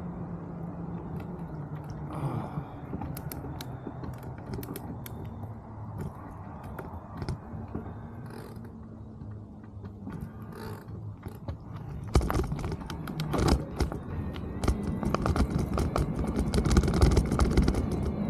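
Mountain bike in motion: tyre hum and the rattle and clicking of the bike's parts over the ground, growing louder and rougher about two-thirds of the way through.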